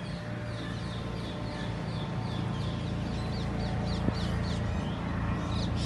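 A bird calling over and over in short, high, falling notes, about three a second, over a steady low rumble. The calls pause a little after four seconds in and start again near the end.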